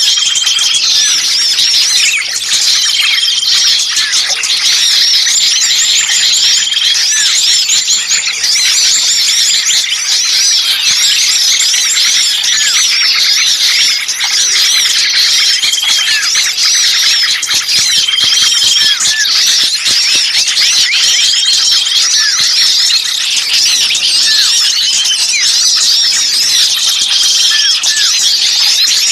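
A dense, continuous chatter of many small songbirds calling at once: high chirps, quick hooked notes and trills, with a short held whistle coming back every few seconds. It is a bird-trapping lure recording of small birds in an agitated, 'pinched' distress racket meant to draw other birds in.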